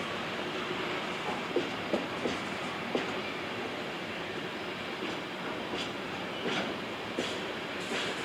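Train rolling past on the track: a steady rumble with irregular wheel clacks over the rail joints.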